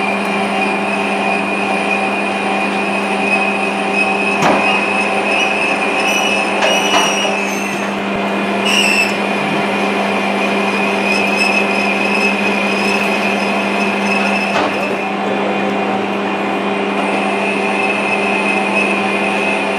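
Metalworking lathe running steadily while a parting-off tool is fed slowly into the spinning workpiece: a steady machine hum with a high whine, brief squeals from the cut around the middle and a couple of sharp clicks.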